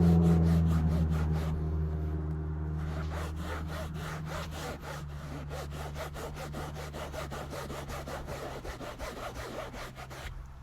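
Fast, even rubbing strokes, about four or five a second, over a steady low hum that slowly fades.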